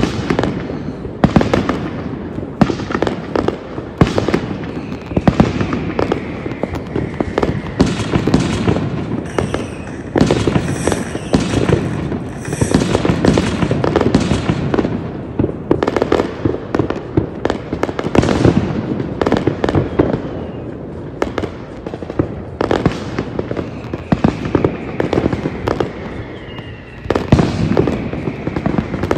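Fireworks display: a dense, continuous run of aerial shell bursts and bangs, one after another. A couple of faint falling whistles cut through the bangs.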